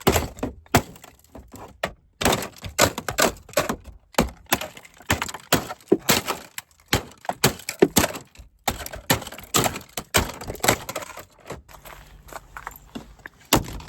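Rapid, irregular blows with cracking and breaking of hard plastic, as a truck's dashboard around the lit engine warning light is smashed. The blows thin out near the end.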